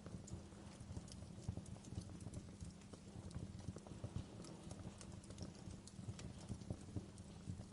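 Wood fire crackling in a fireplace: dense, irregular small pops and snaps over a low, steady rumble of burning.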